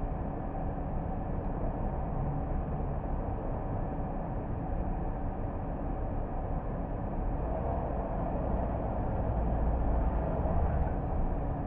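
A car driving along, with a steady low rumble of engine and tyre noise on the road that grows a little louder about eight seconds in.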